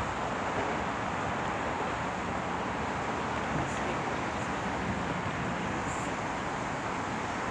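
Steady rushing noise of passing vehicles, with wind on the microphone.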